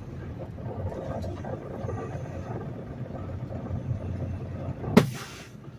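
Peterbilt semi truck's diesel engine running as a low steady rumble, with a single sharp knock about five seconds in.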